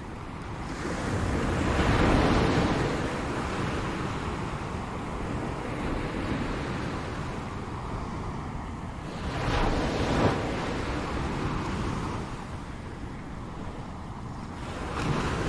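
Ocean waves breaking on a shore, with surges about two seconds in, around ten seconds in, and again near the end, over a steady wash of surf.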